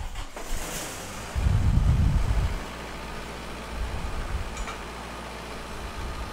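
Welding machine running with a steady low hum, with a louder low rumble between about one and a half and two and a half seconds in.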